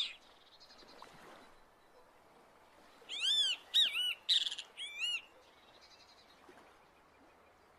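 Great kiskadee calling: a quick run of arched, ringing notes starting about three seconds in and lasting about two seconds.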